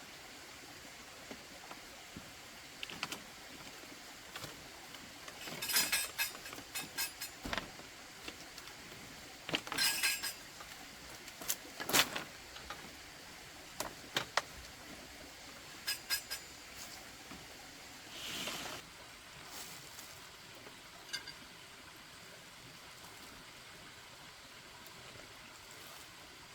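Scattered short clinks and knocks of objects being handled, some in quick runs of several, over a faint steady background.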